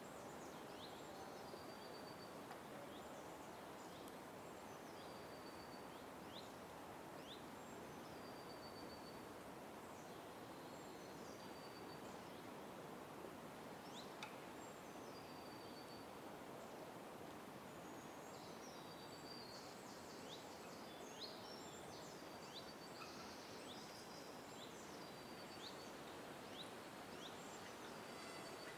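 Faint wild birdsong: several birds giving short high chirps and quick falling notes throughout, with a patch of rapid high trills in the second half. Under it runs a steady low background hiss of distant outdoor noise.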